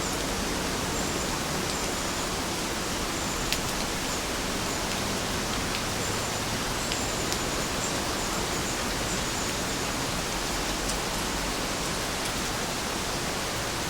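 Steady rain falling, an even hiss with scattered sharp ticks of individual drops landing.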